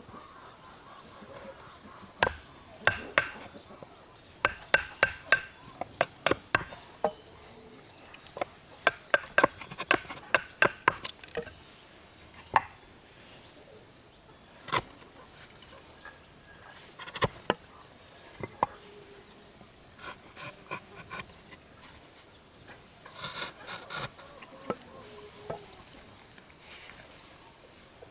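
Irregular sharp knocks of a hand tool striking wood, in quick runs and then more sparsely, over a steady high-pitched drone of insects.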